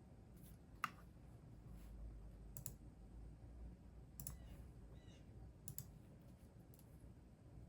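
Computer keyboard keys clicking now and then: a handful of separate, unhurried keystrokes spaced a second or more apart, over a faint low hum.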